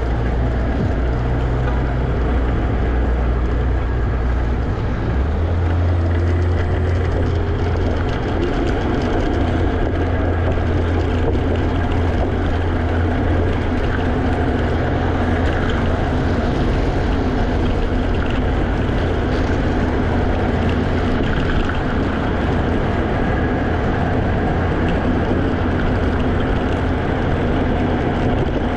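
Steady wind buffeting on a GoPro's microphone while riding a Segway Ninebot electric scooter, a loud low rumble with road noise under it. The rumble shifts a little higher in pitch about five seconds in.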